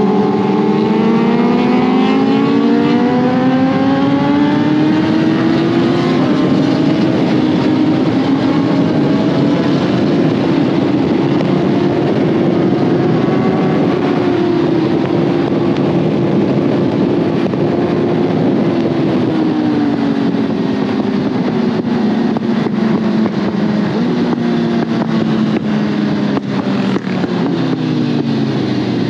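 Suzuki GSX-R1000R's inline-four engine under way at speed, with heavy wind rush. It pulls up through the revs over the first few seconds, holds steady at cruise, eases off about two-thirds of the way in, then rises briefly again near the end.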